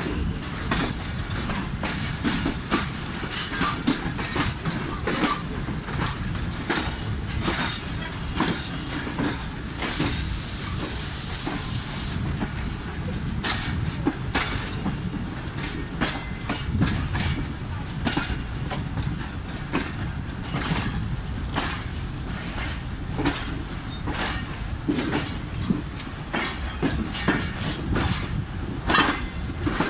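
Passenger train running on the rails, heard from an open coach doorway: a steady low rumble with frequent sharp, irregular clicks and clacks of the wheels over the rail joints.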